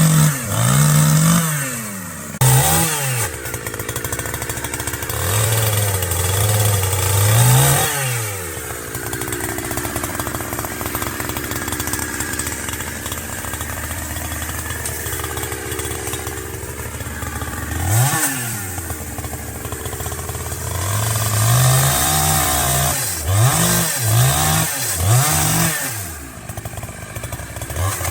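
Chainsaw cutting branches, its engine revving up and down over and over, with a steadier stretch of running in the middle.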